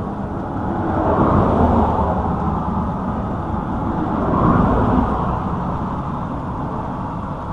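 Steady rumble of road vehicles, swelling and fading twice: about a second in and again around four and a half seconds in.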